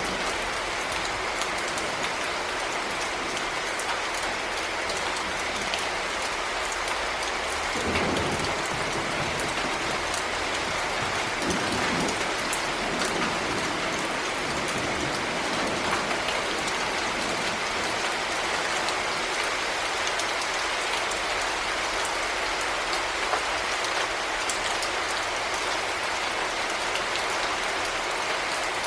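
Heavy rain falling steadily, dense patter of drops on a surface, with two short low rumbles about eight and twelve seconds in.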